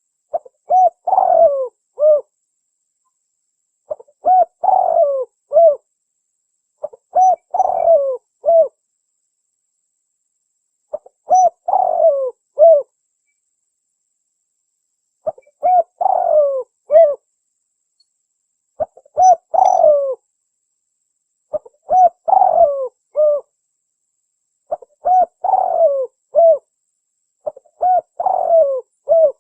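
Spotted dove (tekukur) lure call, cooing in a three-part phrase about nine times, each a short note, a longer falling coo and a clipped final note, separated by silent gaps of one to two seconds.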